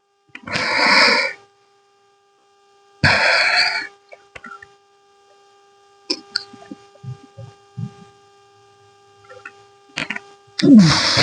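A man breathing hard after a set of shoulder lifts: two loud, rough breaths about two and a half seconds apart. Light clicks follow, then a short vocal sound near the end, over a faint steady hum.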